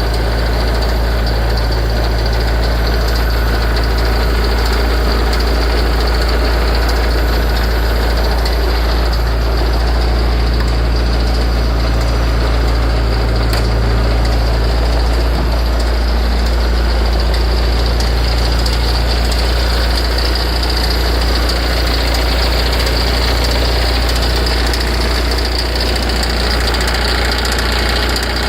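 Ferrari F355's V8 idling steadily just after start-up, with a light, regular ticking from the front of the engine, lighter than tappet noise. The owner suspects an alternator or water-pump tensioner bearing, though the cause is unknown.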